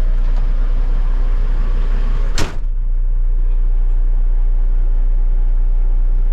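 A Kenworth T800's Caterpillar diesel idling steadily. A cab door slams shut about two and a half seconds in, after which the sound turns duller.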